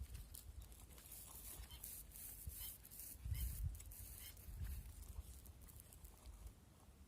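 Wind buffeting the microphone in uneven low rumbling gusts, strongest around the middle, with a faint high hiss.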